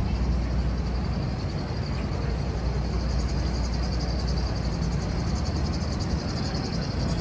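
Busy city street ambience: a steady low rumble of traffic, with wind buffeting the microphone.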